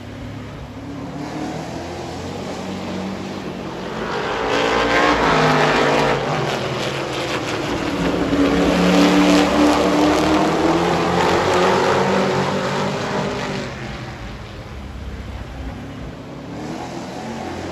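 Super Truck race trucks' engines running at speed on the oval, growing louder as the trucks pass, with engine pitch bending up and down, then fading away near the end.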